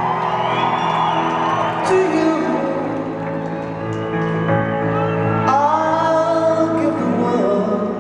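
Live concert music with sustained piano notes, while audience members whoop and shout over it in a large hall.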